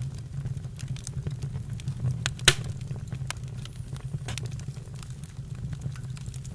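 Campfire burning: scattered crackles and snaps over a low steady rumble, with one sharp pop about two and a half seconds in.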